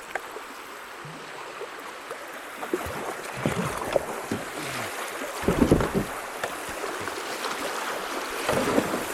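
Creek water rushing around a kayak as it runs a rocky riffle, growing louder from a few seconds in, with splashes and wind buffeting the microphone, strongest about halfway and again near the end.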